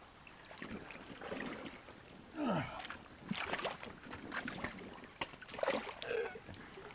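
Water sloshing and swishing in a gold pan as it is worked in a creek, in irregular swishes.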